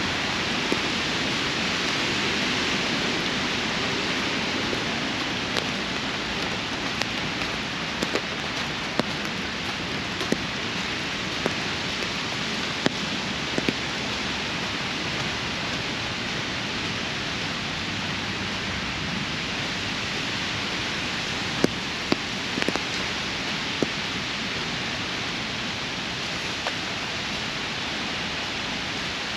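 Steady rainfall, an even hiss, with scattered sharp ticks of single drops landing close by.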